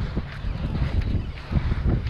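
Strong wind buffeting the microphone, an uneven low rumble that rises and falls in gusts.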